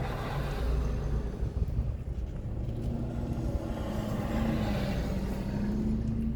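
Motor vehicle rumbling steadily, with a hum and hiss that swell in the second half and then cut off abruptly.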